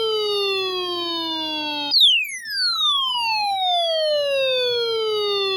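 Electronic alert tone that heralds a severe thunderstorm warning: a steady falling tone, then about two seconds in a second tone that starts high and sweeps down steeply, then slowly, like a siren winding down.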